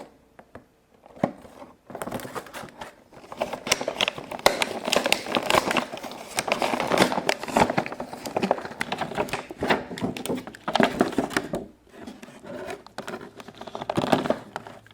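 Toy packaging being opened by hand: a dense run of crinkling and crackling that starts about two seconds in.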